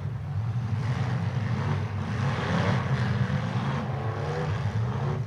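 Demolition derby car engines running at high revs, one held hard on the throttle, with its pitch rising twice.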